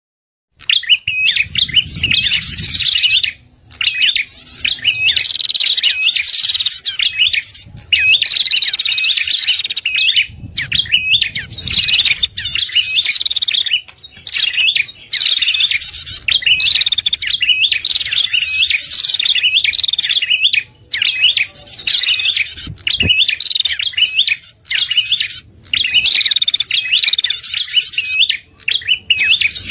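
A recorded prenjak kepala merah lure call: rapid, repeated high chirping phrases that run almost without a break, with only brief pauses between bursts.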